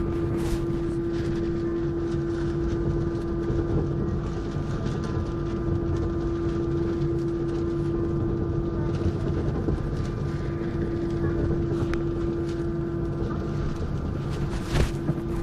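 Cabin noise inside an Airbus A321 airliner: a steady whine over an even rumble, with a couple of light knocks near the end.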